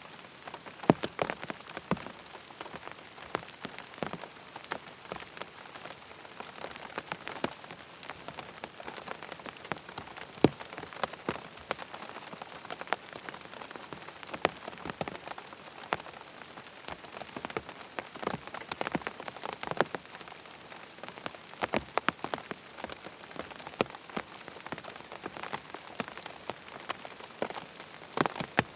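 Steady rain falling, with irregular sharp taps and clicks of drops striking a surface scattered throughout.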